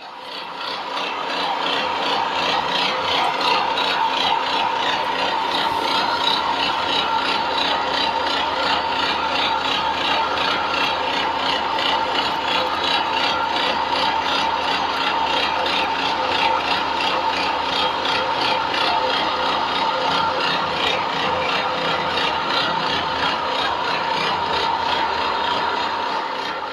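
Engine-driven feed pellet mill running steadily under load, with a continuous rattling, scraping grind from the press as it forms pellets.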